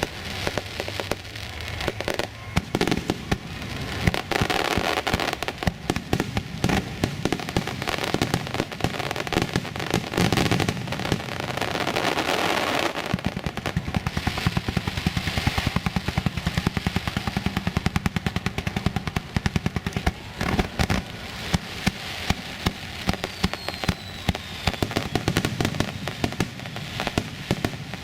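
Fireworks display: a dense, rapid crackling and popping, with repeated sharp bangs throughout.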